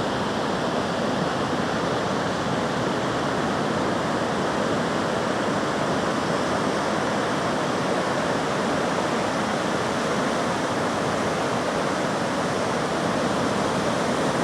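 Steady rushing water, an even continuous roar without any rise and fall of breaking waves.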